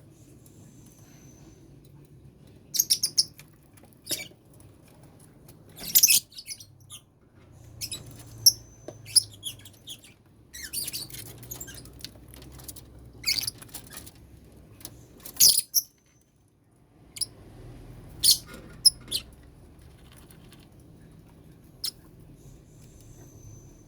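Lovebirds in a colony cage giving short, shrill chirps and squeaks in irregular clusters, over a steady low hum.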